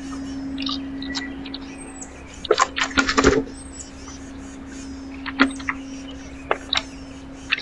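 Birds at a backyard feeder: sharp taps and knocks, a quick cluster about two and a half seconds in and single ones later, with a few faint short high chirps. A steady low hum runs underneath.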